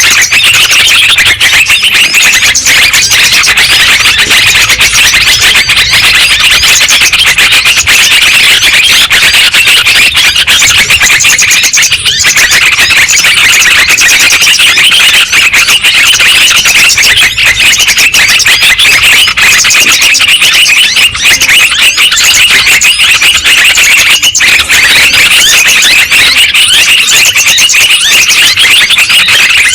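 Yellow-vented bulbul calls, many overlapping in a loud, unbroken chatter, as in a bird-lure recording.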